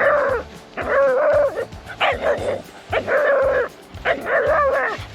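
A terrier barking repeatedly: about five drawn-out, wavering barks, each lasting under a second, about a second apart.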